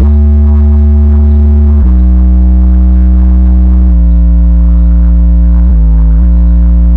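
12-inch Kenwood KFC-W3012 car subwoofer, driven by a 1400-watt amp, playing a song's deep bass line of long held notes. The notes change pitch about every two seconds, mostly stepping down. It is loud enough to overload the recording.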